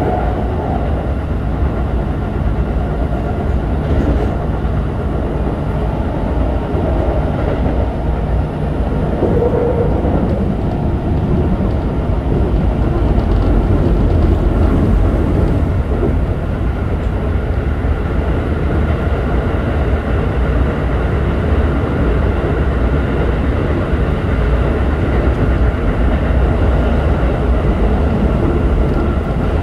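Interior running sound of a Keikyu 1000-series train with a Siemens GTO-VVVF inverter, heard from inside the car: a continuous low rumble of wheels and running gear at a steady level, with faint steady tones above it.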